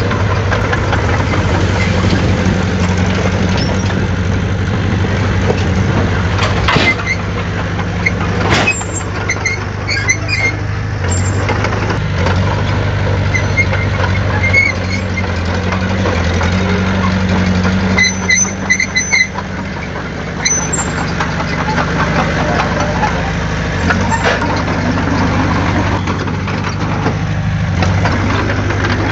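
Heavy diesel earthmoving engine running steadily with a low hum. A few brief high chirps sound about two-thirds of the way in.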